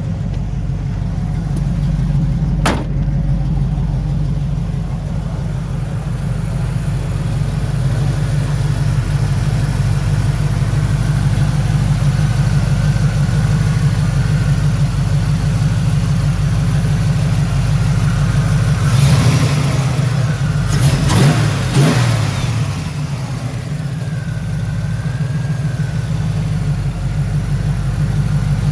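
Chevrolet Ram Jet 350 fuel-injected V8 running steadily through headers and dual exhaust, swelling louder for a few seconds about two-thirds of the way in. A short sharp click comes a few seconds in.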